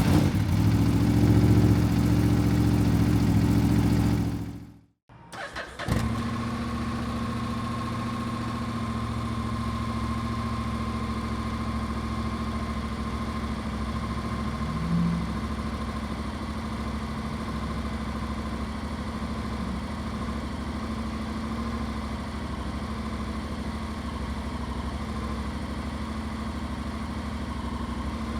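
Honda X-ADV's 745cc parallel-twin engine: a louder steady engine note for about four seconds that cuts off, then a brief starter crank with the engine catching about six seconds in and settling into a steady idle. A short blip of engine sound about halfway through the idle.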